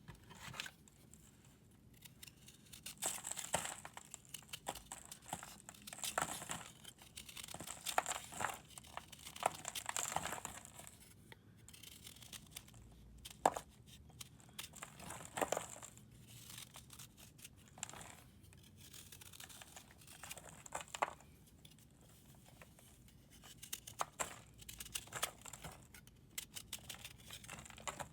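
Pressed powder blocks being crumbled and shaved by hand: irregular bursts of dry, crackly crunching and scraping with quiet gaps between them, and one sharp crack about halfway through.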